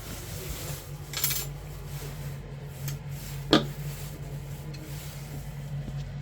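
Metal parts or tools being handled: a short clattering rasp about a second in and one sharp metallic knock midway, over a steady low hum.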